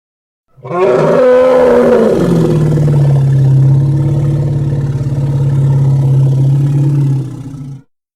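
Elephant calling: a short cry that bends in pitch, then a long, steady, low-pitched roar that stops abruptly.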